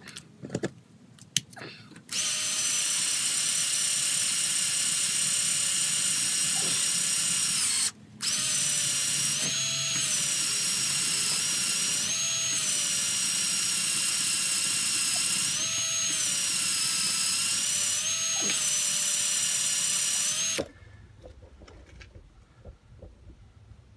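Electric drill running under load as it bores into a snapped steel bolt, making the hole for a bolt extractor. It starts about two seconds in, stops briefly near eight seconds, rises in pitch for a moment four times, and cuts off near the end.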